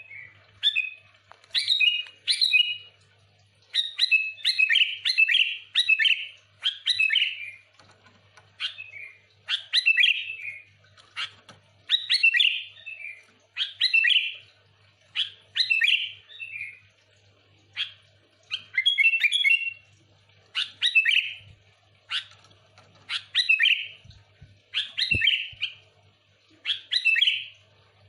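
Sooty-headed bulbul (kutilang) singing vigorously: short, bubbly chirping phrases repeated about every one to two seconds.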